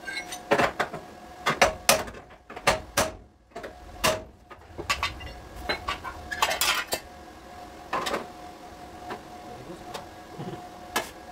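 Irregular sharp metallic taps and clanks of hand tools striking and knocking against sheet metal, a dozen or so spread unevenly, over a faint steady hum.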